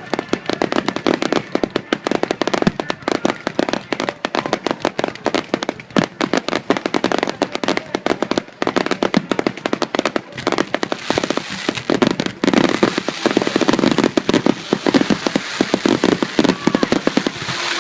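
Fireworks display: a rapid, dense string of bangs and crackles, thickening into a near-continuous crackling hiss over the second half.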